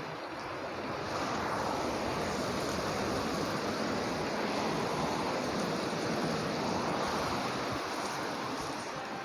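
Heavy rain pouring down: a steady hiss that swells a little about a second in.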